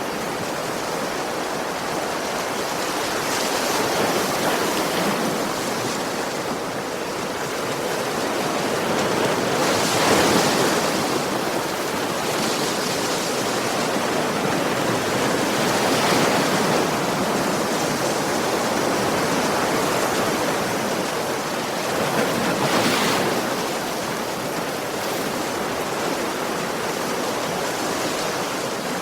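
Sea waves washing onto a beach: a steady rush of surf that swells with a breaking wave about every six seconds.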